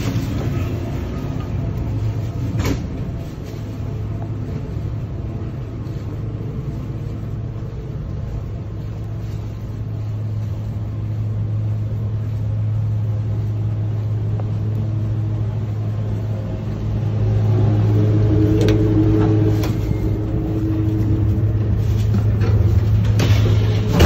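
Steady low hum of a passenger train heard inside a railroad coach, growing louder in the second half, with a few scattered knocks.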